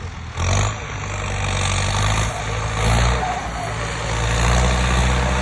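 Zetor 8245 Turbo tractor's turbocharged four-cylinder diesel engine running steadily under load while ploughing. It grows louder over the first second, then holds an even drone.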